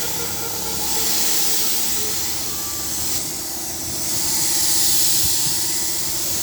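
Paint spray gun hissing as it sprays, the hiss swelling and easing off as passes are made, over a faint steady hum.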